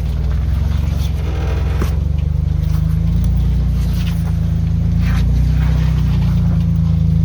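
Jeep Wrangler engine running steadily under load as the Jeep crawls over rocks, with a few short knocks from the rocks and drivetrain.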